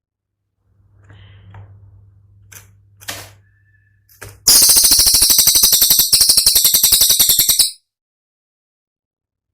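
Cililin song: a loud, rapid, sharp high-pitched rattling burst of about three seconds, starting about four and a half seconds in. Before it there is only a faint low hum with a few soft clicks.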